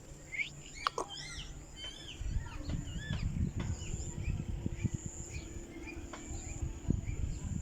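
Green ringneck parakeet calling in a run of short, arched chirps, thickest in the first couple of seconds and then softer, repeated chirps. A steady high thin tone runs underneath, and a low rumble comes in about two seconds in.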